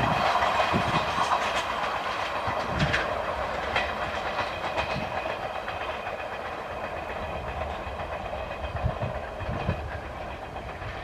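Passenger train coaches' wheels clattering on the track as the last coach moves away, the sound fading steadily.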